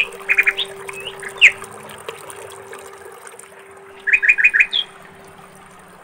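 Small songbird chirping in two short bursts of quick repeated notes, one at the start and one about four seconds in, with a steady low hum underneath.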